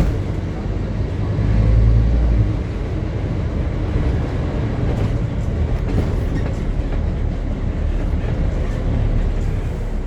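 Scania double-decker bus running on the road: a steady diesel engine drone and low road rumble with rattling, swelling louder for about a second about a second and a half in.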